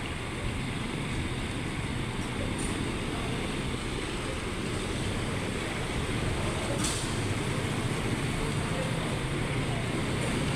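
Steady downtown traffic noise in the rain: a low road rumble under an even hiss, slowly growing louder, with one faint tick about seven seconds in.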